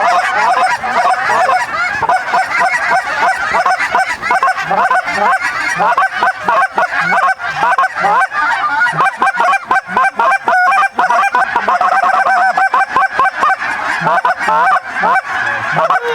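A big flock of geese calling all at once, a dense, continuous chorus of overlapping honks and yelps.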